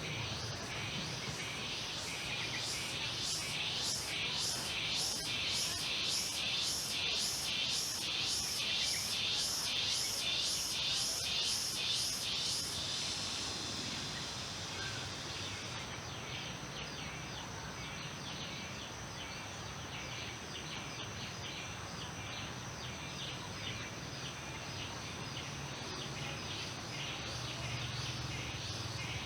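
Rural outdoor ambience of insects and birds: a loud, rhythmic high chirping at about two pulses a second for roughly the first twelve seconds, over a steady high insect drone, then fainter, quicker chirping, with a low hum underneath.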